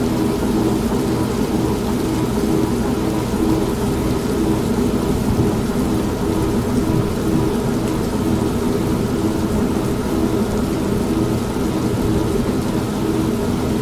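Old manual washing machine running: a steady low motor hum that pulses rhythmically, mixed with steady rain and thunder.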